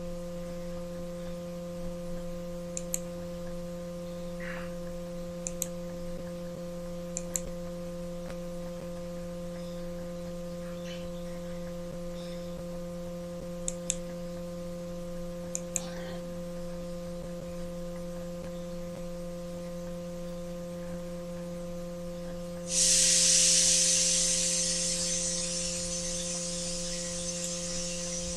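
Steady electrical mains hum with short sharp clicks, mostly in pairs, like computer mouse clicks. Near the end a loud hiss starts suddenly and slowly fades.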